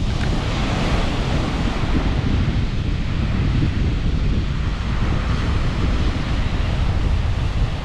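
Strong wind buffeting the microphone in a steady, rumbling roar, over the wash of surf breaking on the beach.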